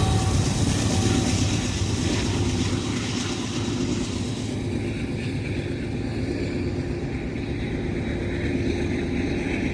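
Freight train rolling past a railroad crossing, its rumble steadily fading over the first few seconds before settling to a lower steady level.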